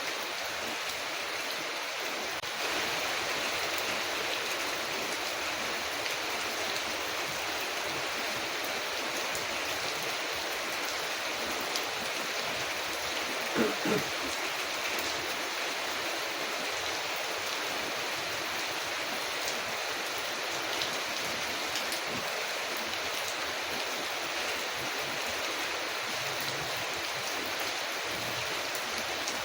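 Steady rain falling on a window, with faint scattered crackles from a wood fire. Two short, louder low knocks come just before halfway.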